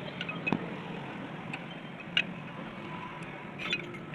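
A few sharp metallic clinks of tools and brake parts, about three, over a steady low hum of vehicle engines and traffic.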